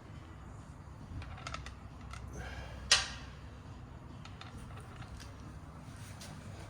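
Light clicks and taps of hand tools and small aluminium nuts being worked on a motorcycle wheel axle, with one sharp metallic clink about three seconds in.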